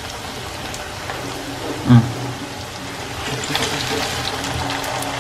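Pork and onions sizzling in an oiled wok, with a wooden spatula stirring and scraping the pan from about three seconds in, setting off many short clicks.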